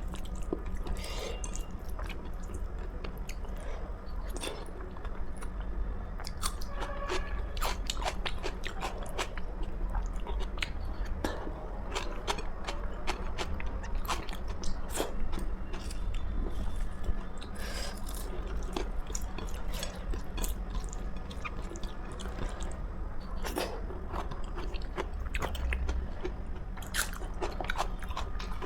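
Close-up chewing and biting of food, with many small crisp crunches and crackles scattered throughout, over a steady low hum.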